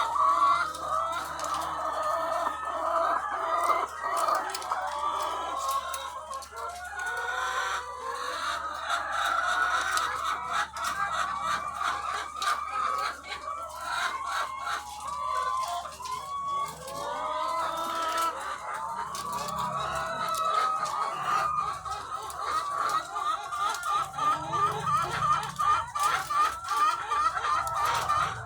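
A flock of thousands of egg-laying hens clucking and calling at once, a dense, unbroken chorus of overlapping calls.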